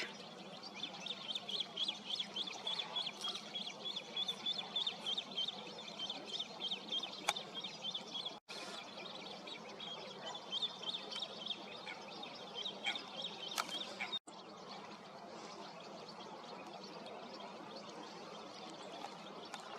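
Birds calling in quick, high, repeated notes, broken twice by a brief dropout. Near the end only a faint steady background remains.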